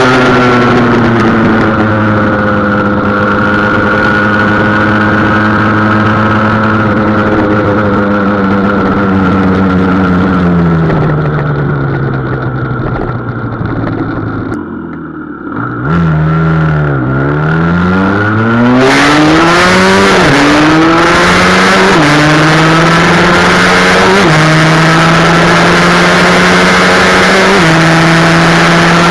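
Husqvarna SM 125 two-stroke single-cylinder engine under way. Its pitch falls slowly as the bike slows, drops to near idle and goes quieter about halfway through, then climbs again in several rising sweeps with gear changes. It runs at high revs near the end.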